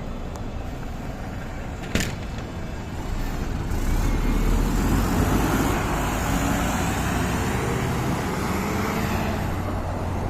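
Higer KLQ6129GQ2 diesel city bus running, engine and road noise heard from on board. There is a single sharp click about two seconds in. From about three seconds the bus gets louder, with the engine note rising as it pulls away and accelerates.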